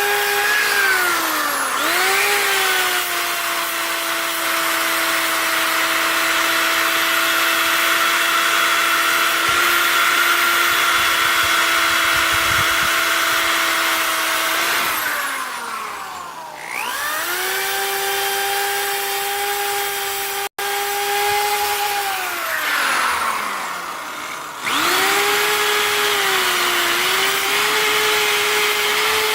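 Handheld electric power tool driving an abrasive fiber wheel, stripping old powder coat and rust off winch parts: a steady motor whine over a grinding hiss. It briefly slows near the start, then twice spins down and winds back up to speed, once around the middle and again a few seconds later.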